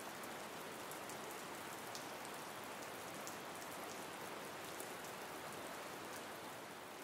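Rain sound effect: a steady, even hiss of falling rain with scattered faint drop ticks, easing off slightly near the end.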